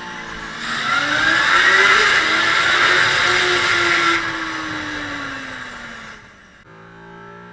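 Honda CB250 Hornet's small four-cylinder engine revving hard, the note rising as it accelerates, then winding down over a couple of seconds. It cuts off suddenly near the end.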